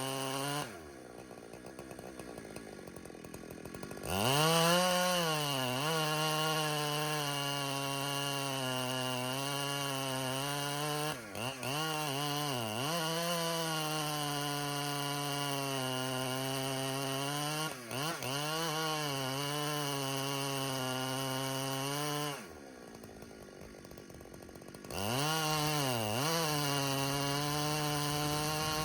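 Two-stroke chainsaw running at full throttle in a cut. It drops to idle twice, each time revving straight back up to a steady high whine, and briefly bogs down a few times while cutting.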